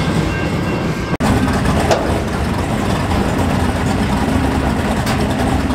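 A passing freight train rumbling for about the first second, then, after a sudden cut, a car engine idling steadily with a low, even rumble.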